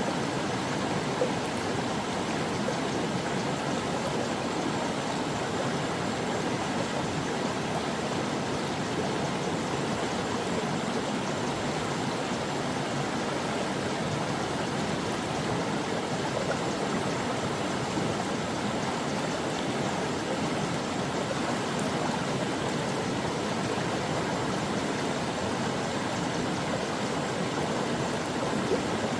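Brook water running steadily over rocks, a continuous even rush and babble of flowing water.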